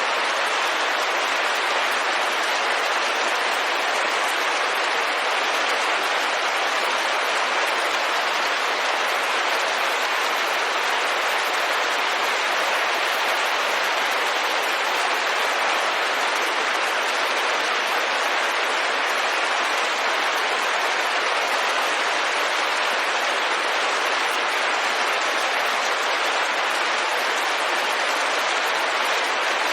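Steady rain falling on a window: an even, unbroken hiss with no thunder or other events.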